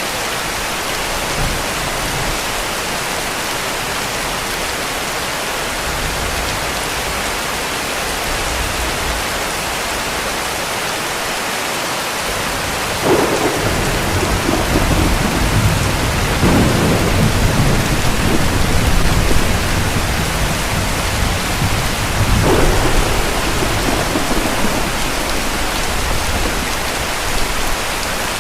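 Steady heavy rain throughout. From about halfway through, thunder rumbles in several rolling peals that die away near the end.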